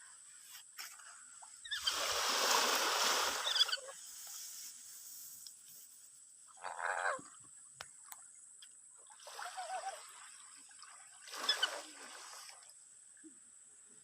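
A lory (nuri parrot) giving a few harsh, scratchy calls with long gaps between them, the longest and loudest about two seconds in, over the wash of sea waves. Its calling is slow and halting, typical of the bird being unsettled by the unfamiliar surf.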